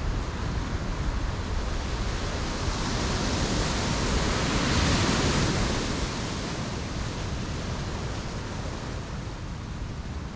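Ocean waves on a beach: a wave breaks and washes in, swelling to its loudest about halfway through and then drawing back, over a constant rush of surf.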